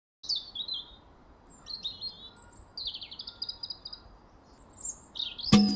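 Songbirds singing in several short, quick chirping phrases. Near the end, loud upbeat salsa music starts with a sharp strike.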